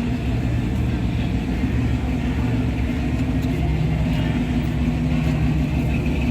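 A car engine running steadily at low revs, its pitch shifting slightly about halfway through.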